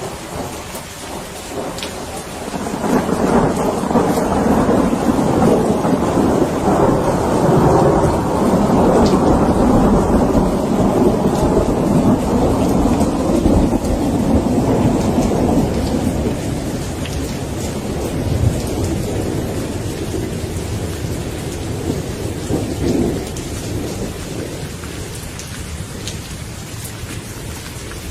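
Steady rain with a long rolling rumble of thunder that builds about three seconds in, holds for more than ten seconds, then slowly fades away.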